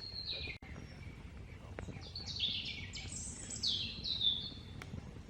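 A songbird singing a run of short, high, chirping notes, many of them sliding downward, with the loudest phrases in the second half.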